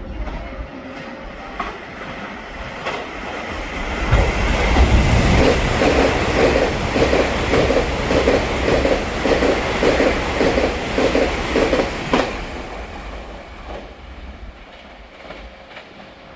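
An EMU3000 electric multiple-unit express train passing at speed. Its wheels knock over a rail joint (fishplate) in an even clickety-clack of about two knocks a second, then the sound fades as the train moves off.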